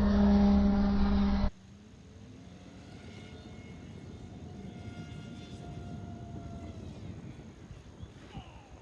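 Electric motor and propeller of a heavy RC jet converted to 6S electric, first a loud steady whine that cuts off abruptly about a second and a half in. Then a much fainter whine that slowly drops in pitch over a steady hiss.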